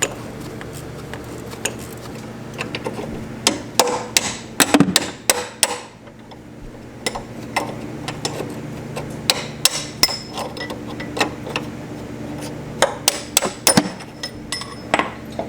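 Hand tools knocking and clinking on metal car parts in irregular clusters of sharp strikes, over a steady low hum.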